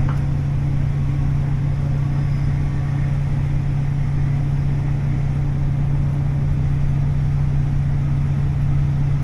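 The DMF15HSA six-cylinder diesel engine of a KiHa 40 railcar running at a steady, unchanging speed, heard from inside the car as a strong low hum.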